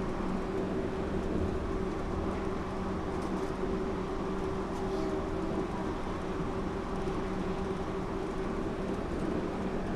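Yurikamome rubber-tyred automated guideway train running between stations, heard from inside the car: a steady rumble with a constant low hum.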